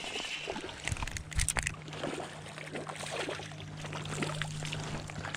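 Water sloshing and splashing as a small bass is played and reeled in on a rod, with a cluster of sharp clicks about a second in over a steady low hum.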